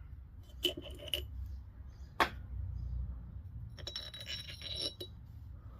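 Steel pinion bearings clinking against the pinion shaft as they are slid on and off by hand. The old bearings have been opened up to a snug slip fit. There are a few sharp metal clicks about a second in and again at two seconds, then a short run of ringing clinks later on.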